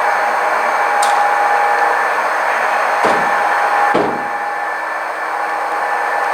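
Model train running on the layout track: a steady whirring hum from the motor and wheels, with sharp clicks about a second, three seconds and four seconds in, a little quieter after the last click.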